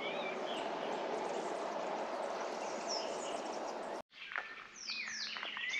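Birds chirping over a steady outdoor hiss. About two-thirds of the way through, the hiss cuts off abruptly, leaving clearer birdsong with sweeping, whistled calls.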